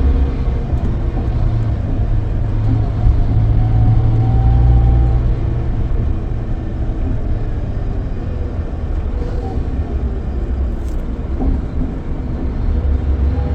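Scania K440EB coach engine running under way with a steady low drone and road rumble, its pitch holding fairly level.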